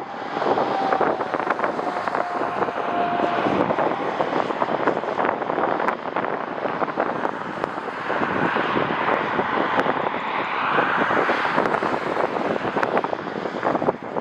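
Jet airliner engines heard through heavy, gusting wind noise on the microphone. A faint falling whine sounds in the first few seconds, and the engine noise swells again in the second half.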